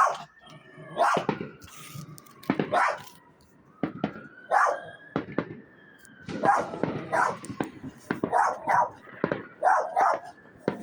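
Dog barking over and over, about a dozen sharp barks, some in quick pairs. A faint thin whistle slides up and then down twice behind them.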